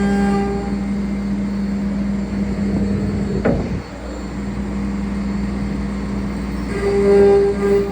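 CNC router running with a steady pitched hum, a brief falling sweep about three and a half seconds in, and a stronger higher tone that comes and goes near the end.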